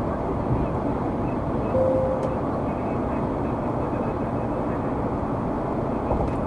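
Steady road and engine noise of a car cruising at highway speed, heard from inside the cabin, with one short electronic beep about two seconds in.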